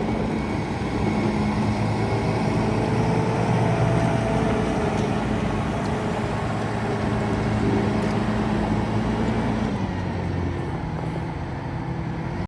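Diesel engine of a heavy yard machine running and working, a steady hum whose pitch shifts slightly as the load changes.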